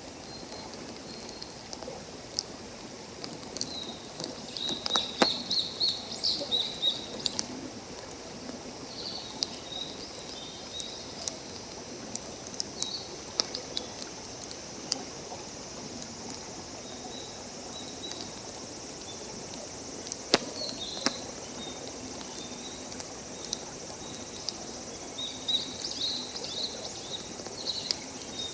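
Wood campfire crackling, with scattered sharp pops, the loudest about five and twenty seconds in, over a steady background hiss. Clusters of short, high bird chirps come about five seconds in and again near the end.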